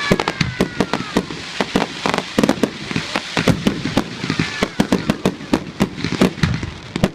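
Fireworks display: a dense, rapid run of bangs and crackling pops from firework shells and cakes, several reports a second.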